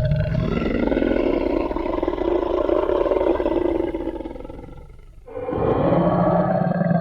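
Designed T. rex roar sound effect: a long, deep roar that fades out about four and a half seconds in, then a second roar begins about a second later.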